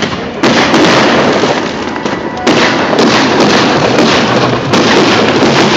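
Aerial fireworks bursting in loud, dense, crackling volleys, with fresh surges coming in about half a second in, at about two and a half seconds, and again near the end.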